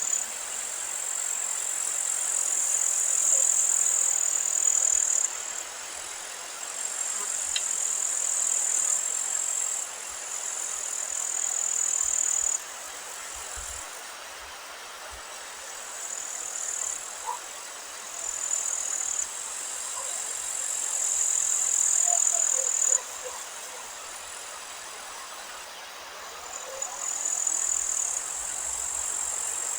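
Outdoor meadow ambience: a steady hiss of wind with a loud, high, steady buzz that comes and goes in bouts of a few seconds, and a few faint short chirps.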